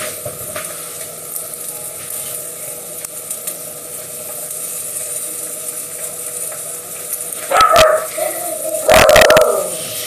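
A dog barking a few times in the last two and a half seconds, loud against a steady background hum. The barking is heard through the walls, which the cook puts down to a film playing on a TV in another room.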